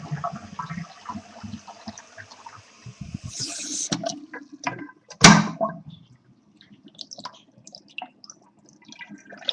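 Water running and trickling in a drain during drain cleaning: a steady hiss for about three seconds, then scattered irregular splashes and clicks. A single sharp loud knock comes a little past the middle.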